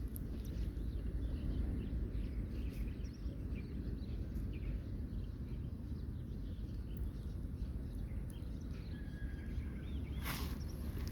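Outdoor ambience: a steady low rumble with faint, scattered bird chirps, and a brief rushing noise near the end.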